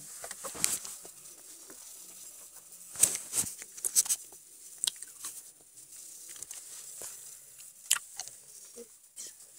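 Scattered clicks, taps and rustling as small objects are handled, with a few sharper knocks about three, four and eight seconds in.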